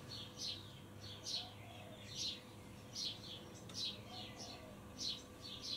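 Small bird chirping repeatedly: short, quick, downward-sliding notes about one or two a second, over a faint steady hum.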